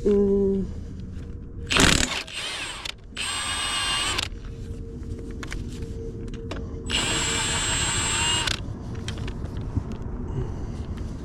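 Impact wrench running in two short bursts, about a second and then about a second and a half long, spinning lug nuts off a wheel. A sharp metallic clank comes just before the first burst.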